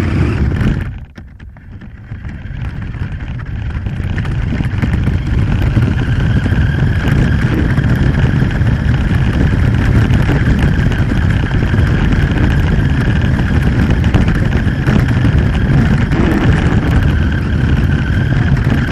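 Radio-controlled car driving, heard from a phone taped to its body: a steady high motor whine over a loud rumble and rattle from its wheels on the ground. The sound dips about a second in, then builds back up as the car gathers speed.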